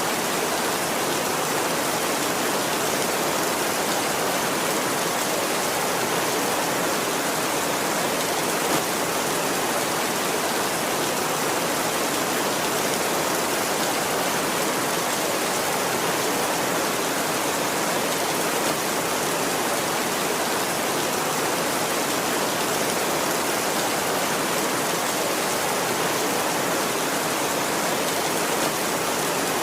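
Heavy rain falling steadily on a tin roof: a dense, even hiss of drops that doesn't let up.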